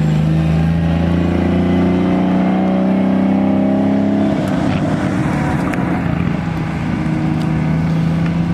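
A car's engine running close by with a steady, deep, even tone. About four seconds in, the sound turns rougher.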